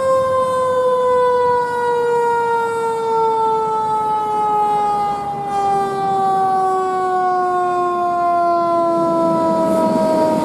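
Fire engine siren sounding one long wail that slowly falls in pitch after rising just before.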